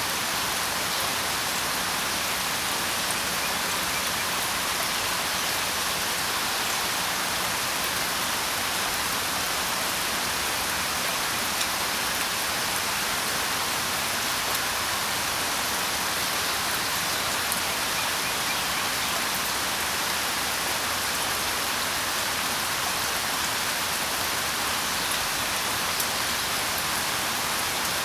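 Steady rainfall, an even hiss with a few sharper taps of individual drops scattered through it.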